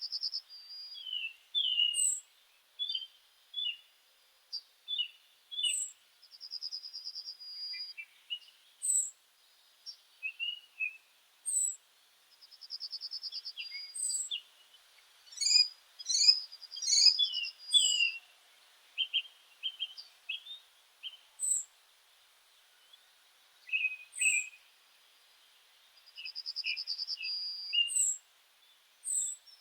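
Meadow songbirds singing: a short buzzy trill repeats every six or seven seconds among scattered high chirps and whistled notes, with a denser, louder flurry of calls about halfway through.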